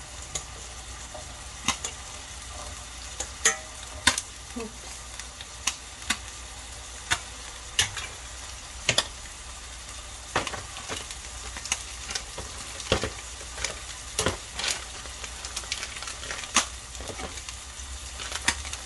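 Beef steak, cherry tomatoes and asparagus sizzling in a hot ridged grill pan: a steady frying hiss with irregular sharp pops and clicks about once a second.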